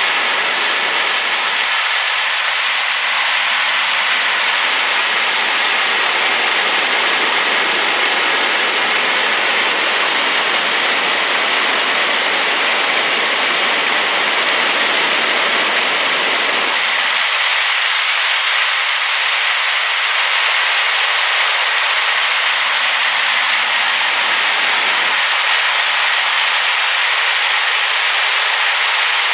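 Waterfall on a rain-swollen river: a steady, even rush of falling water, with most of its energy high up and little bass.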